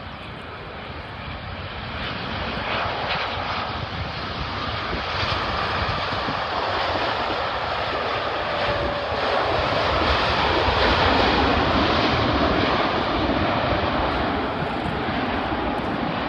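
Airliner passing with a steady rushing engine noise that grows louder over about ten seconds, then eases a little near the end.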